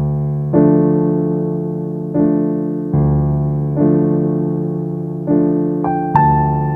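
Background piano music: slow, sustained chords struck about once a second, each fading before the next, with a couple of higher notes near the end.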